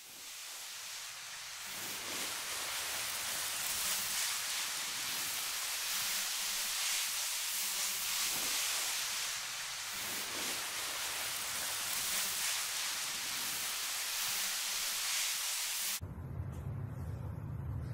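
A steady hiss, fading in over the first two seconds, that cuts off abruptly about sixteen seconds in and gives way to a lower hum.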